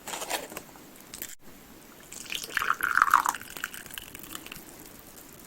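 Liquid poured into a cup, a splashing pour starting about two seconds in and lasting about a second and a half. A few small knocks come first.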